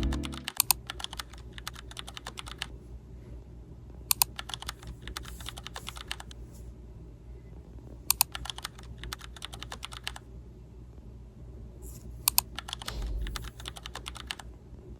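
Typing on a keyboard in four bursts of rapid clicks, each about two seconds long with short pauses between, over a low steady hum.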